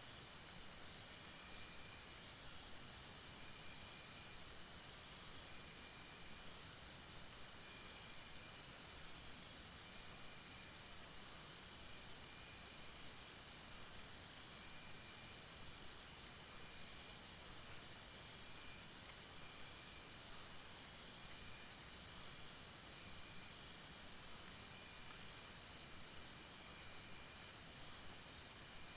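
Night insect chorus, faint: a steady high trilling with a softer, lower pulsing call under it. A short, very high trill recurs about every twelve seconds.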